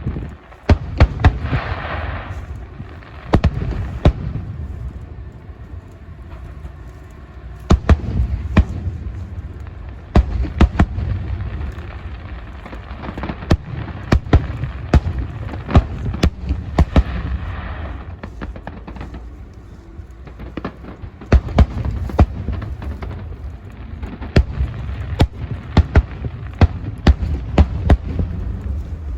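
Fireworks display: a steady run of aerial shells bursting, sharp cracks and booms coming in clusters over a low rumble.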